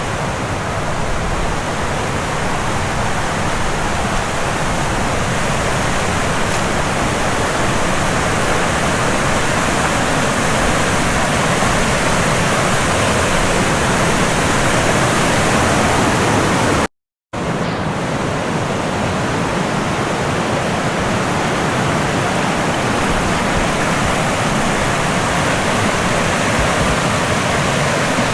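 Rushing water, a steady loud rush. It breaks off for a moment about seventeen seconds in and comes back the same.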